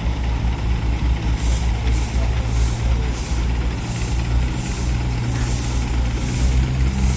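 Steam traction engine working with a rhythmic exhaust, hissing chuffs about one and a half a second starting about a second in, over a steady low hum.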